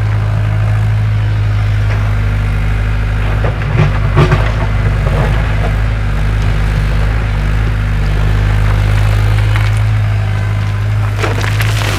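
Excavator engine running steadily with a low hum, with a few knocks and scrapes about four seconds in and again near the end.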